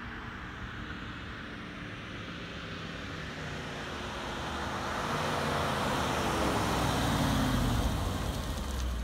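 1999 Audi S8 D2's naturally aspirated 4.2-litre V8, with a cat-delete exhaust, driving by: the engine and tyre noise grow louder as the car approaches, peak about three-quarters of the way through, and the engine note drops in pitch as it passes.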